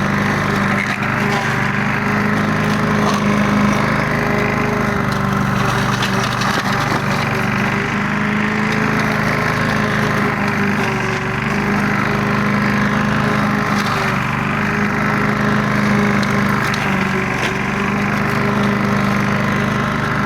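Briggs & Stratton single-cylinder engine on a Rover rotary lawn mower, running steadily at an even speed.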